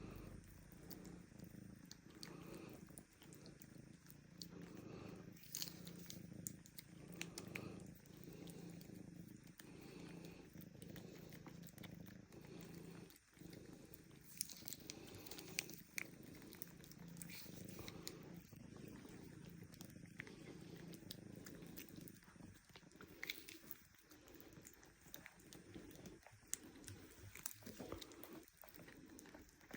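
Domestic cat purring steadily and quietly, with a few faint clicks here and there.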